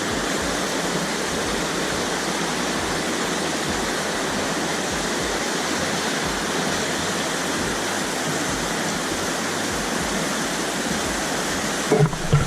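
Steady rushing of flowing water, a stream or small cascade, at an even level, with a brief low bump near the end.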